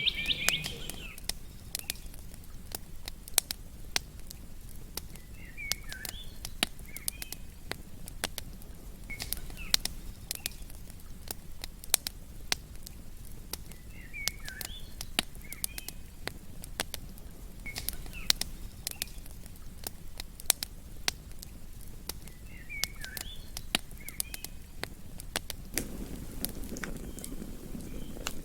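Campfire crackling, with many sharp pops over a low steady rumble, and a short chirping bird call repeating every four seconds or so.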